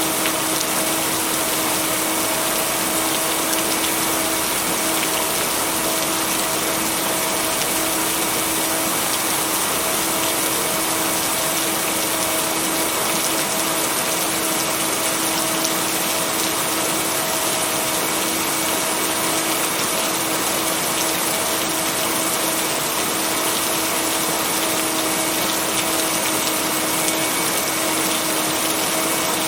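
Steady heavy rain, an even unbroken hiss, with a constant low tone held underneath. No thunder.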